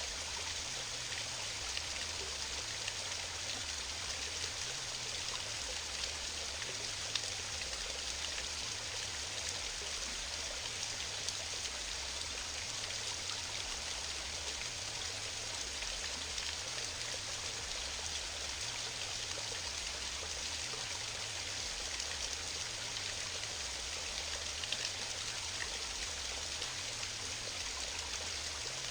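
Small waterfall on a mountain stream: water rushing and splashing steadily, without a break.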